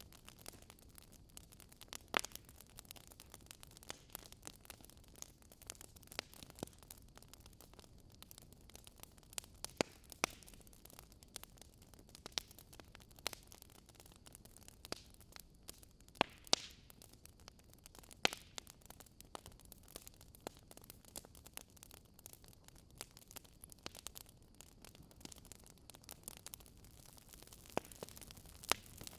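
Faint crackle: irregular sharp pops over a steady low hiss.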